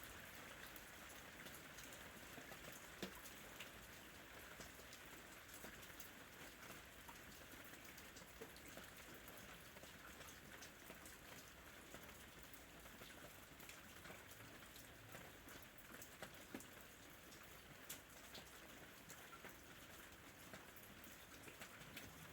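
Faint, steady ambient rain: an even hiss with scattered single drops ticking.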